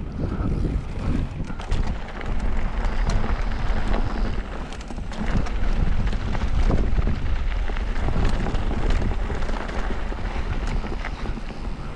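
Wind buffeting the microphone over the rolling of mountain bike tyres on a rough trail, with frequent clicks and rattles from the bike.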